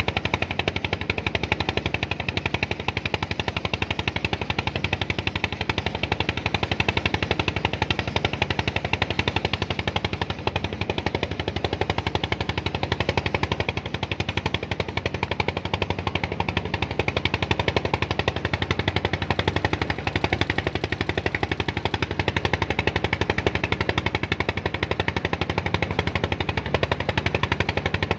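Small engine running steadily at close range, a rapid, even chugging that holds unchanged throughout.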